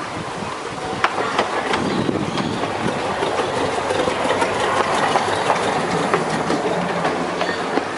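Small zoo train running along its track, with a steady rumble and irregular clicks of the wheels over the rail joints.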